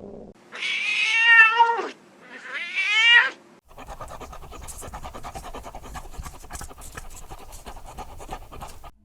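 Domestic cat meowing twice, loud drawn-out calls, the first ending with a falling pitch, followed by a steady raspy rattling sound for the rest.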